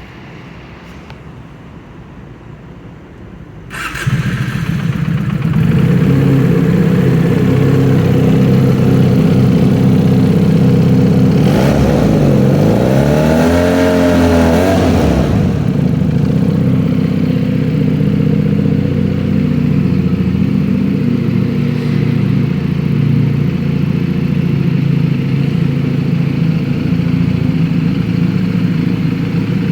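Benelli TNT 249S single-cylinder engine through an R9 Zeta aftermarket exhaust with the dB killer fitted: it starts about four seconds in and settles into a steady idle. Near the middle it is revved once, the pitch rising and falling back, then it idles on.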